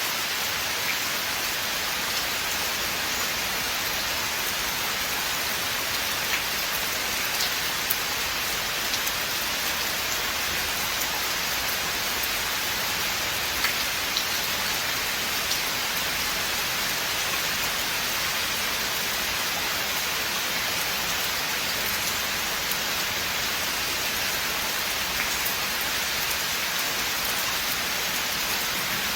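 Steady rain falling in a forest, an even hiss with scattered individual drops ticking close by.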